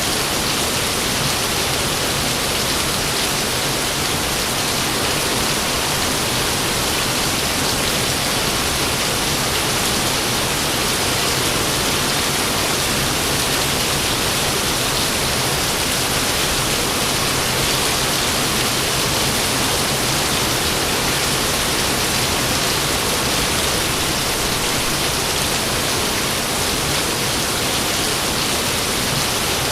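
Steady rain falling, an even hiss that holds the same loudness throughout with no thunderclaps.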